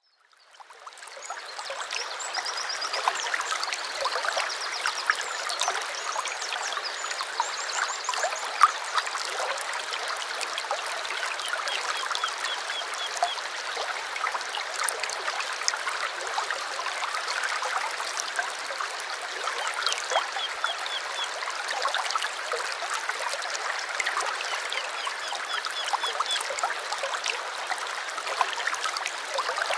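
A small stream babbling steadily, fading in over the first two seconds, with songbirds singing short rapid trills over it several times.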